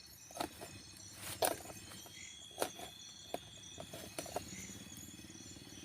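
Camp cooking gear being handled at a gas stove: a string of irregular light knocks and clicks, the loudest about a second and a half in, over a faint low hum.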